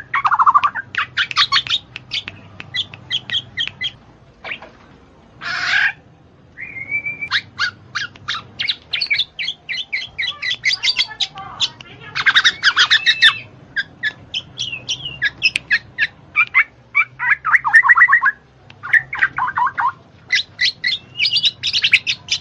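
Bird calls: rapid runs of short chirps and squawks, broken by a few longer warbled notes and short pauses.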